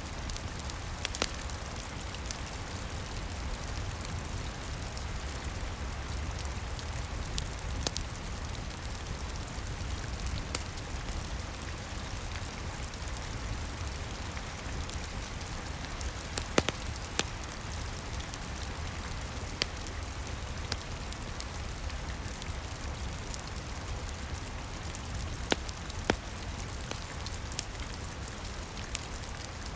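Steady rain with a low rumble, mixed with the occasional sharp pop of a crackling wood fire, a few of them louder.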